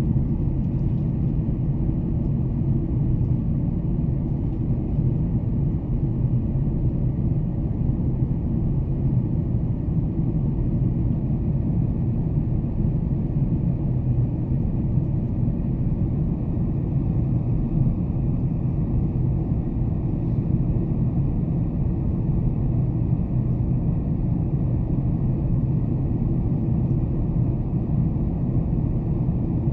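Steady cabin noise of a Boeing 747-400 in flight: a constant low rumble of engines and airflow with a faint hum.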